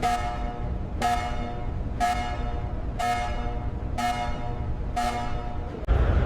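A pitched, horn-like tone sounds six times, about once a second, each one dying away, over a steady low rumble. Just before the end it stops, giving way to a louder rumbling noise.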